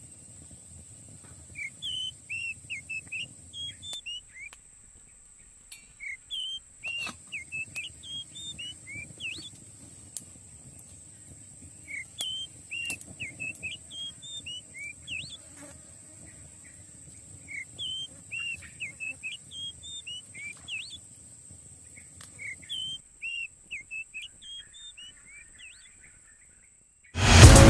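Small songbird singing short, quick chirping phrases in bouts every few seconds, over a steady high-pitched whine like insects. Loud music starts abruptly just before the end.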